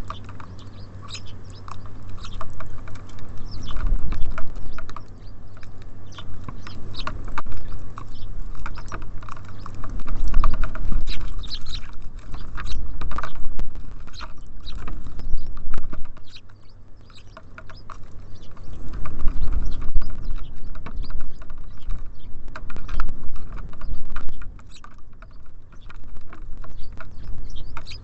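Small birds pecking and cracking seeds at a feeder close to the microphone: dense, irregular taps and clicks, with low rumbles that swell and fade a few times over a steady low hum.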